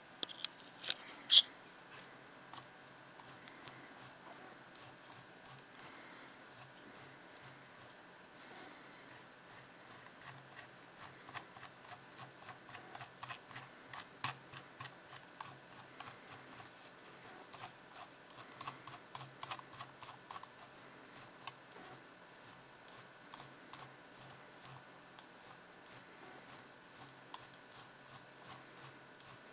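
Razer Mamba mouse's scroll wheel squeaking as it is turned: short, high-pitched, cricket-like chirps in quick runs of about three or four a second, with brief pauses between runs. The squeak is a fault in the wheel.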